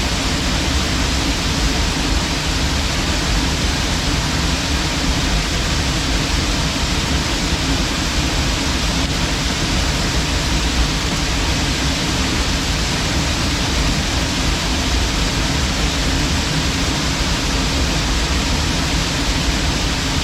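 Waterfall pouring in a loud, steady, unbroken rush of water.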